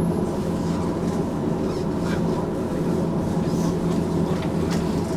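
Hankai Tramway streetcar heard from inside: a steady low-pitched hum over an even rumble, with faint clicks here and there.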